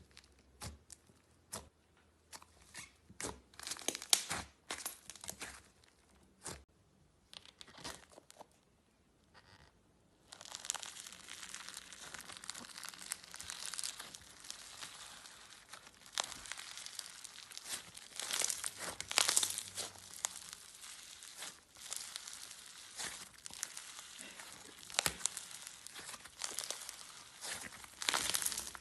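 Slime being squeezed and stretched by hand, crackling and popping: scattered crackles at first, then from about ten seconds in a steady run of crackling.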